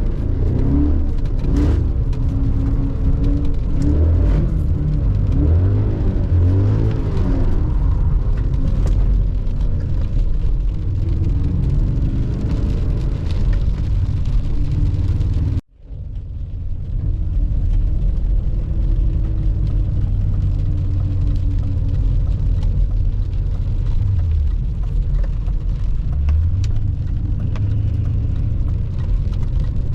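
BMW E39 M5's V8 engine heard from inside the cabin, with revs rising and falling in the first half, over a steady drone of road noise. The sound cuts out abruptly for a split second about halfway through, then the steady driving sound returns.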